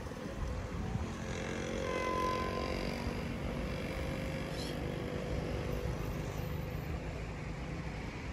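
Distant diesel railcar engines rumbling steadily. A pitched, multi-toned sound comes in about a second in and fades out by about four seconds.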